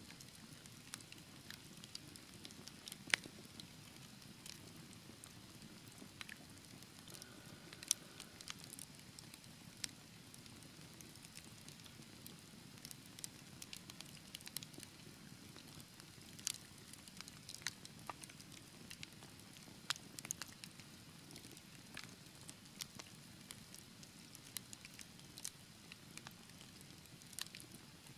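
Wood fire burning in a fireplace, with a soft low hiss and irregular sharp crackles and pops. The loudest snaps come about three seconds in and near eight seconds.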